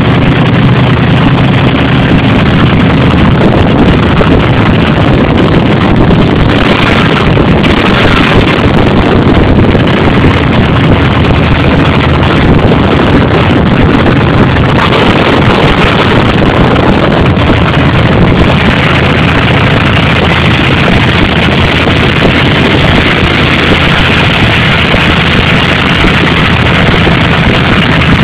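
Engine with a 1968 Carter AVS four-barrel carburetor running steadily, heard close up under the open hood.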